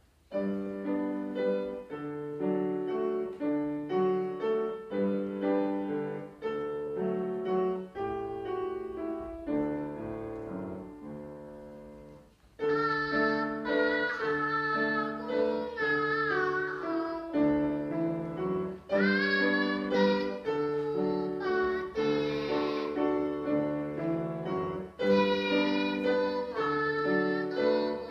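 A piano plays the introduction of a children's song, and about halfway through a young child starts singing the melody over the piano accompaniment.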